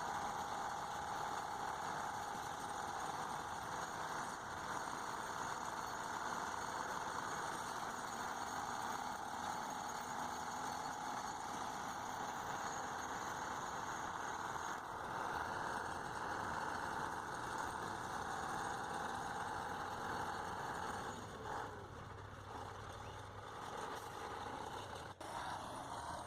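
Heavy vehicle engine running steadily at idle, easing off somewhat toward the end.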